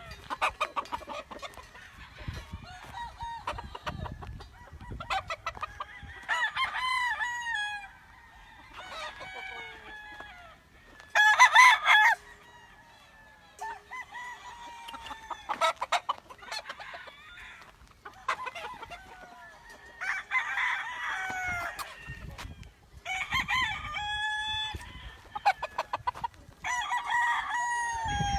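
Roosters crowing again and again, their crows overlapping, with hens clucking in between; one crow about halfway through is much louder than the rest.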